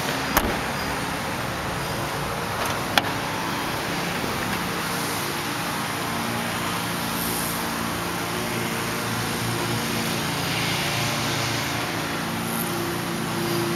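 Steady vehicle noise with a low hum that grows a little stronger after a few seconds, broken by two sharp clicks: one just after the start and one about three seconds in.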